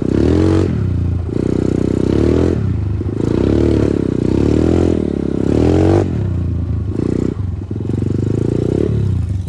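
Progasi Smart Max 150 motorcycle's single-cylinder engine, ridden, revving up and dropping back several times as the throttle is opened and closed.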